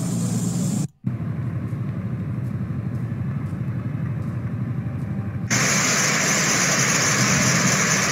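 A low steady rumble, broken by a short dropout about a second in, then an abrupt cut about five and a half seconds in to a loud steady hiss of heavy rain and wind.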